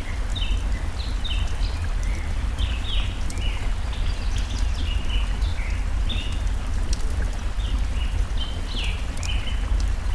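Small songbirds chirping in quick short notes over and over, layered with the sharp scattered crackles of a burning wood fire and a steady low rushing of stream water.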